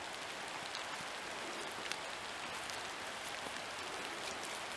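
Steady rain pattering, with scattered faint ticks of single drops.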